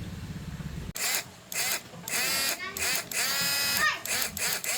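A small electric motor run in several short bursts, its whine rising and falling as it speeds up and slows down, after a low rumble that stops abruptly about a second in.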